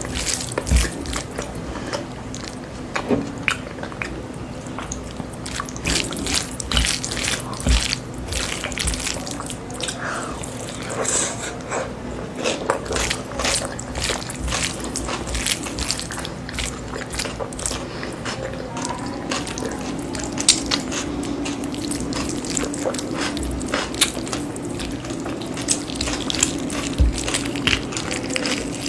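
Close-miked eating sounds: a steady stream of short wet clicks and smacks of chewing, with a faint steady hum underneath.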